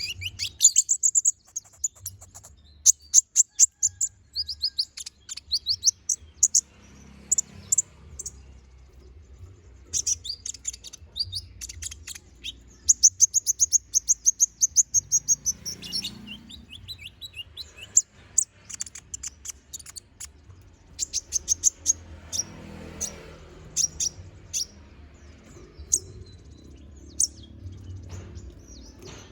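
Konin (kolibri ninja, copper-throated sunbird) singing vigorously in rapid runs of very high, sharp chirps and trills, each run a few seconds long with short pauses between. A faint low hum runs underneath.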